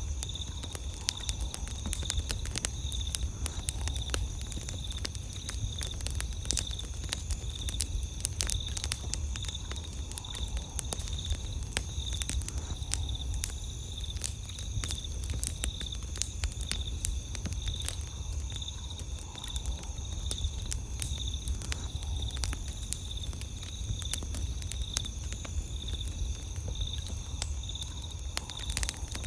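Campfire crackling, with irregular sharp pops and snaps, over night insects chirping in a steady pulsing high trill and a low steady rumble underneath.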